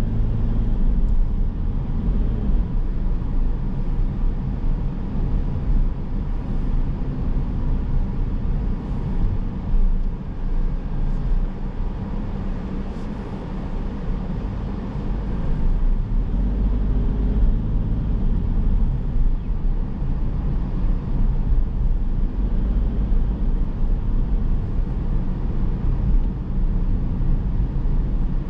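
Car driving on town streets: a steady low rumble of engine and tyre road noise, easing off for a few seconds around the middle and building again.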